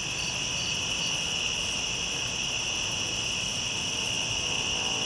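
Night insect chorus: a steady, high-pitched continuous trilling of crickets or similar insects.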